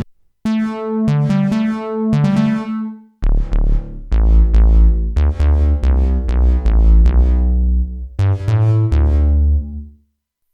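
Jeannie polyphonic DIY synthesizer playing three short phrases of notes with sharp, plucked attacks that die away, with a heavy bass line under the middle phrase. Each phrase breaks off briefly before the next, and the sound stops just before the end.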